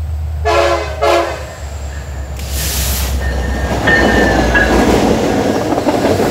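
Diesel locomotive horn gives two short blasts about half a second in. Then the three diesel locomotives of a light-engine move run past close by, with steady engine rumble and wheel noise on the rails.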